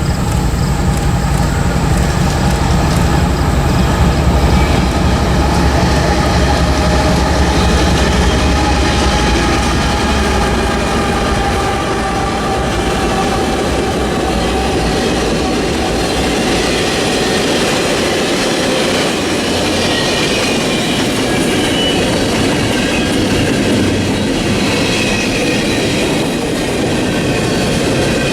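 Freight train passing close by: heavy diesel locomotive rumble that fades after about ten seconds, then the freight cars rolling past with thin, high wheel squeal.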